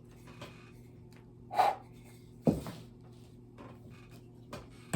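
A few short knocks and clatters, loudest about one and a half and two and a half seconds in, from small wooden birdhouses being handled and set down on a work table, over a faint steady hum.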